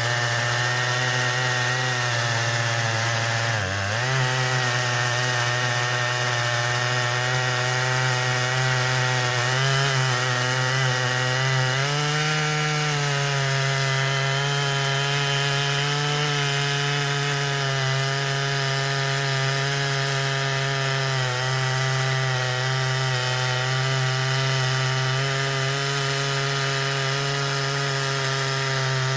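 Stihl MS881 chainsaw running at full throttle under steady load while ripping a log lengthwise in an Alaskan chainsaw mill. The engine pitch sags briefly about four seconds in, shifts slightly about twelve seconds in, then holds steady.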